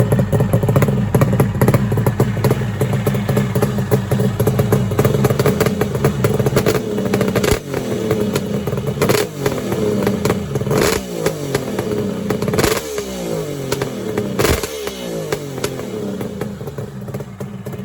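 Kawasaki 750SS air-cooled two-stroke triple motorcycle engine running steadily, then revved with about five sharp throttle blips, each dropping back toward idle, before settling to idle near the end. The engine is freshly started after sitting unused for months.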